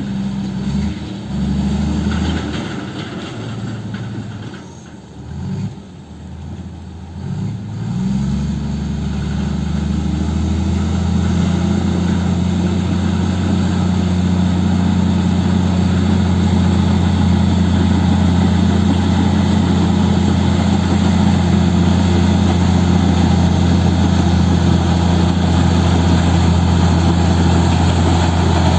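Heavy diesel engine working hard: uneven and dipping for the first eight seconds or so, then its pitch rises and it holds a steady, loud drone under load.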